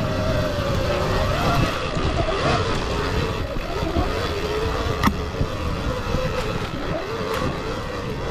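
Motorcycle engine running under way, its pitch rising and falling a little as the throttle changes, over a low rumbling noise. A single sharp knock about five seconds in.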